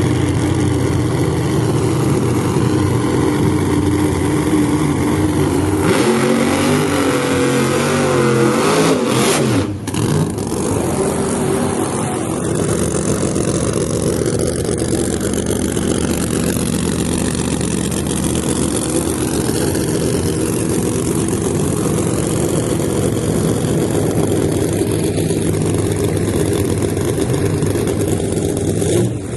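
Drag car engine running loudly, with a steady note that shifts and revs up and down between about six and ten seconds in, dipping briefly before settling back to a steady run.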